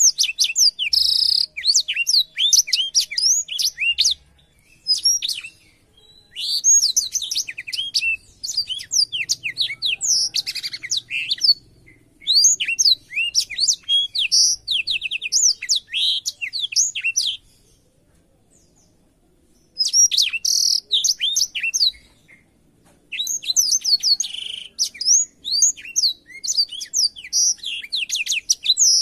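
A blackthroat (black-throated canary) singing a fast, varied song of quick falling twittering notes. Each phrase runs a few seconds, with short breaks between and a longer pause a little past the middle.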